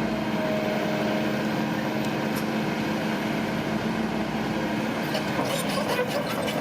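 Heavy earthmoving machine's diesel engine running steadily, with a quick run of metallic clanks and rattles starting about five seconds in.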